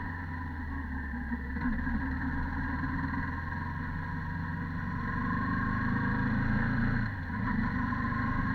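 Stock Yamaha YZF-R15 Version 2.0's single-cylinder four-stroke engine running under way. Its note builds gradually, then dips briefly about seven seconds in before picking up again.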